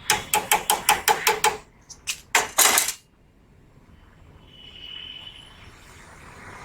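Metal striking metal: a rapid run of about ten ringing metallic taps, some six a second, then a few louder clanks about two and a half seconds in, during refrigerant-pipe work on a window air conditioner.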